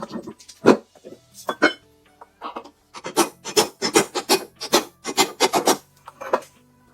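Hand abrading of a rifle part with a file or abrasive, in short back-and-forth scraping strokes. A few single strokes come first, then from about three seconds in a steady run of three to four strokes a second that stops near six seconds.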